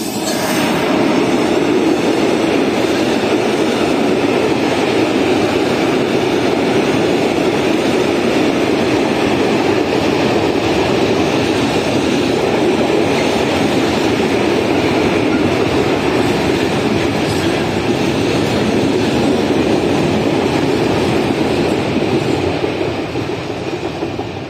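Freight train of open-top wagons hauled by an electric locomotive rolling past at a level crossing: a loud, steady rolling noise of wheels on rail that sets in just as the locomotive passes and fades near the end as the last wagons draw away.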